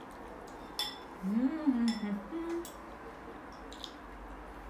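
Chopsticks clinking against a dish three times while eating, with a short rising-then-falling 'mm' from the eater between the first two clinks.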